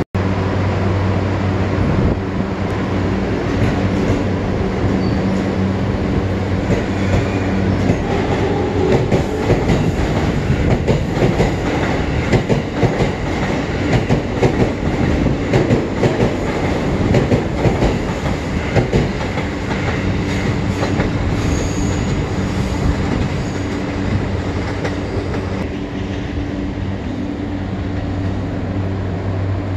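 Electric commuter train at close range: a steady low hum, then for about ten seconds in the middle the rapid clatter of wheels running over rail joints as a train passes, before the hum settles back.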